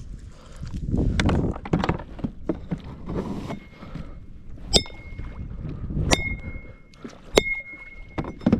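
Irregular knocks and bumps on a kayak, with three sharp metallic clinks about a second and a quarter apart that each ring briefly.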